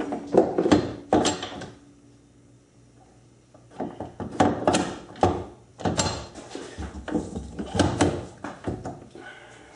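A metal lathe's running hum stops at the start, followed by irregular clunks and knocks of tools and machine parts being handled at the lathe. They come in a short cluster, then a quiet gap of about two seconds, then a busier run of knocks.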